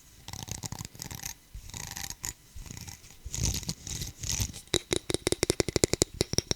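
Close-miked ASMR hand sounds on an object: irregular scratching and rubbing, then fast tapping, about nine taps a second, starting a little before five seconds in, each tap with a slight ring.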